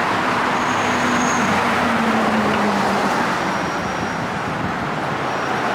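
Steady street traffic, a rush of passing cars, with one vehicle's engine hum falling slightly in pitch over the first few seconds.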